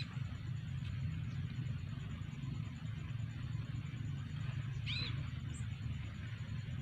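Steady low rumble with a faint, high, pulsing buzz behind it. A small bird gives one short falling chirp about five seconds in.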